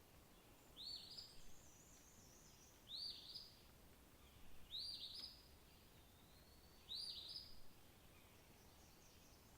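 A songbird repeating the same short, arching call four times, about every two seconds, with fainter high twittering from another bird in between, over a quiet background.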